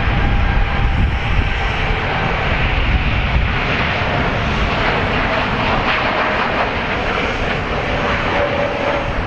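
Airliner engines passing close by: a loud, steady rumble of jet noise with a faint whine that slowly falls in pitch.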